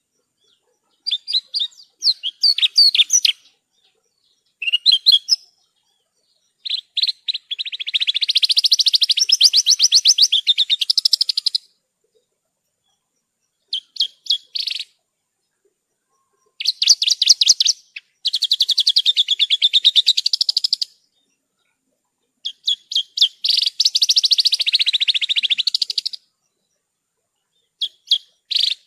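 Javan bush lark (branjangan) singing: bursts of rapid, high-pitched trilled and twittering notes, some short and one about five seconds long, broken by pauses of a second or two.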